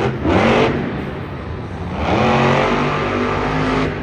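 Monster truck engine revving twice: a short burst just after the start, then a longer rev that climbs in pitch from about two seconds in and holds.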